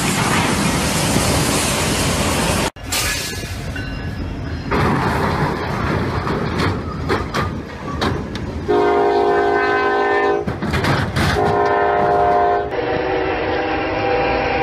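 A freight train running through a crossing with a loud rushing rumble, then rattling and clattering with scattered knocks. Later a freight locomotive's air horn sounds a multi-note chord in several long blasts.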